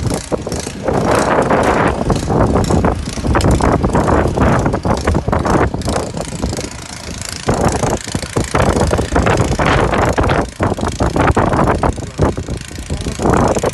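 Snow blower engine running steadily, its level surging and dipping unevenly.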